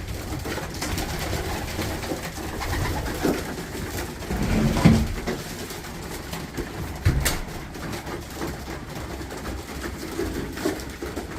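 Racing pigeons cooing inside the loft, loudest about five seconds in, with a sharp knock about seven seconds in.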